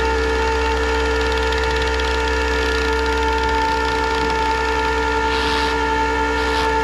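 A running truck engine with a steady mechanical whine of unchanging pitch, the sound of a car hauler's hydraulics or winch working as a car is loaded.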